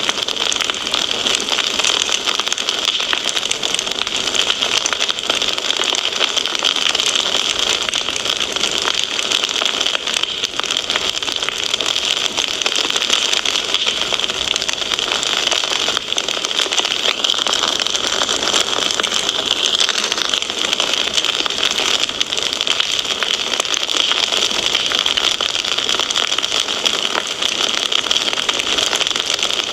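Wood fire crackling in a fireplace: a steady, dense hiss of small crackles and pops that keeps up without a break.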